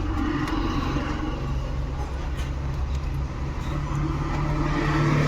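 An engine idling steadily with a low, even hum, with a few faint clicks over it.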